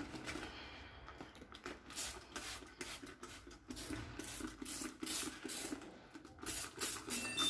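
Scrubbing during cleaning: a run of quick, scratchy rubbing strokes, a few per second, getting louder after about two seconds.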